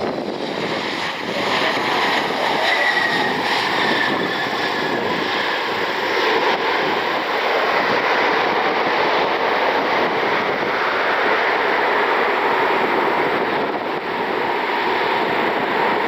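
Boeing 737 MAX 8 airliner's jet engines passing overhead, a steady loud rush with an engine whine that falls in pitch about three seconds in.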